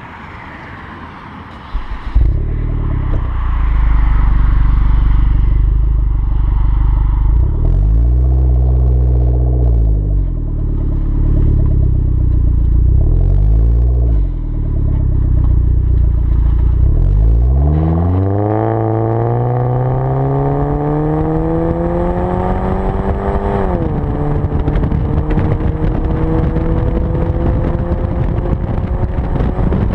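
Hyundai Genesis engine through an aftermarket Tsudo exhaust: it comes on suddenly about two seconds in and idles, then is revved twice in short blips. It then climbs in pitch for several seconds, drops suddenly, and runs on with a slowly rising pitch.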